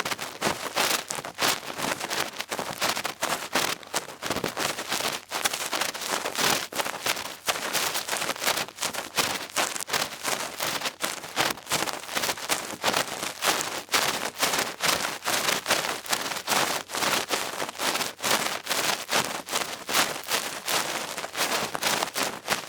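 Close-miked cotton swab scratching and rubbing in an ear, a dense, continuous crackle of quick scratchy strokes.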